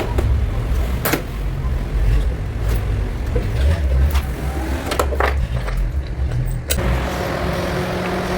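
A car engine running with an uneven low rumble and a few sharp clicks; near the end it settles into a steady, even idle.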